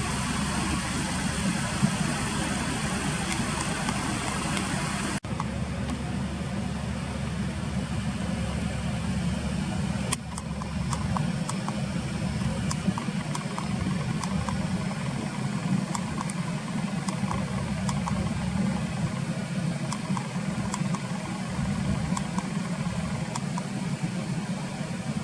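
Steady low rumble of motor-vehicle noise, like traffic or an idling engine, running without a break. The sound changes abruptly about five seconds in and again about ten seconds in.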